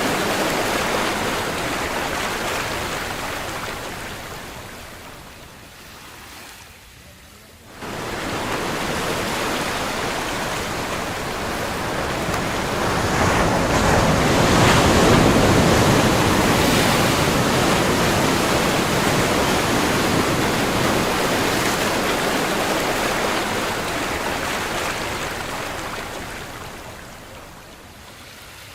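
Ocean surf: a broad wash of waves that fades away, comes back abruptly about a quarter of the way in, swells to its loudest around the middle and slowly dies down again near the end.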